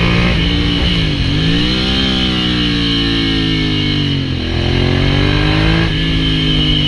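Ducati Hypermotard 796's air-cooled L-twin running through an SC-Project full exhaust, its speed changing. The engine note drops sharply about a second in and climbs again, then sags slowly. It dips once more around four seconds in before holding steady.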